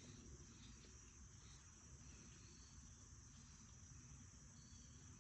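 Faint, steady chorus of crickets trilling in one high, unbroken band, over a low background rumble.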